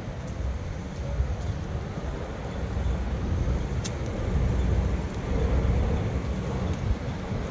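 Low, steady rumble of a diesel big rig running, with one sharp click about four seconds in.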